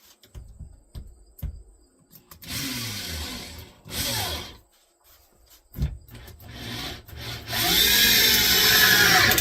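6 amp Black & Decker corded drill driving screws into wood, run in short trigger bursts with the motor speeding up and slowing down, then one longer burst of about two seconds near the end, the loudest, with a few small knocks between.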